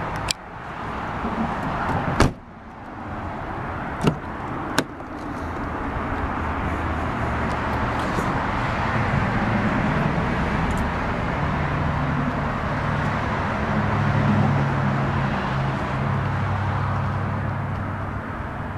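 A car door shutting with one loud thud about two seconds in, among a few lighter clicks, followed by a steady hum with shifting low tones.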